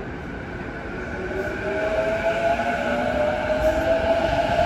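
Keihin-Tohoku line commuter train moving along the platform. Its traction-motor whine rises slowly in pitch as it picks up speed, over the rumble of wheels on rail. The sound grows louder from about a second in.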